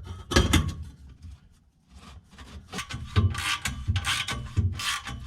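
Metal scraping and rubbing as an exhaust pipe is worked into place by hand. One loud scrape comes about half a second in, then, after a quieter pause, a run of repeated scraping strokes.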